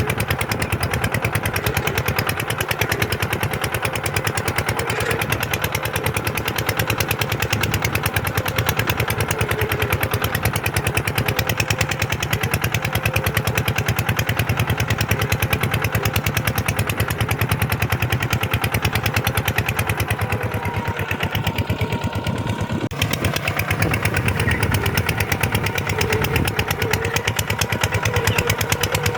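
Kubota tractor's diesel engine running steadily with a fast, even firing rhythm. The tone changes briefly about two-thirds of the way in and ends with a sharp click.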